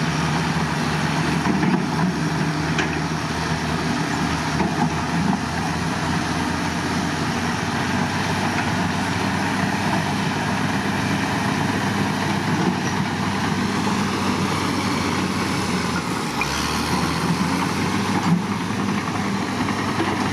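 Heavy construction machine's diesel engine running steadily at a low, even pitch.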